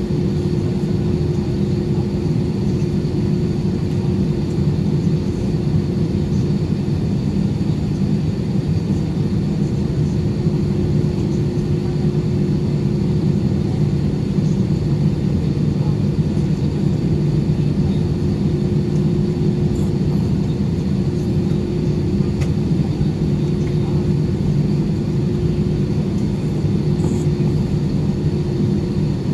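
Airbus A320 cabin noise from a window seat: the engines and airflow make a loud, steady drone with a constant low hum and a faint high whine.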